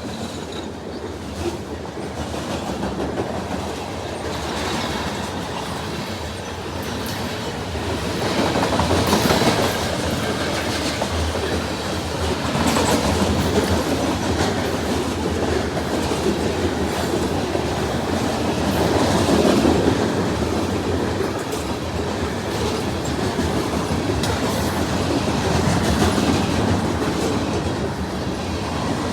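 CSX freight train rolling past close by, its wheels clicking over the rail joints in an uneven clatter. It gets sharply louder right at the start, then stays loud.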